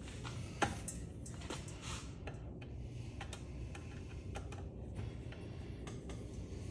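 Scattered light clicks and taps, with one sharper click about half a second in, from hand tools and small metal parts being handled while a ceiling fan is dismantled by hand.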